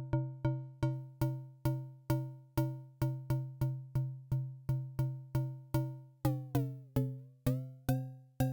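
Elektron Syntakt's SY Toy digital synth machine, dry with no effects, playing a short plucky note over and over, about two to three a second, each decaying fast. About six seconds in the upper overtones slide downward as the sound is tweaked, and near the end the notes ring longer with a buzzier edge.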